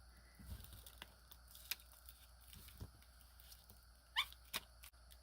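Faint rustling of paper and a cloth rag being handled, with scattered light taps and clicks and a short rising squeak about four seconds in, as excess glue is wiped off a journal page.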